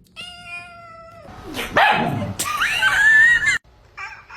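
Cat calling: a short meow, then a louder, rough, drawn-out yowl whose pitch rises and falls, cutting off suddenly. This is the strange sound the cat makes.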